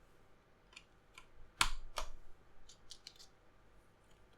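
Keycaps on an Ergodox EZ mechanical keyboard clicking and clacking in a few scattered strokes, the two loudest about a second and a half and two seconds in, with fainter ticks after.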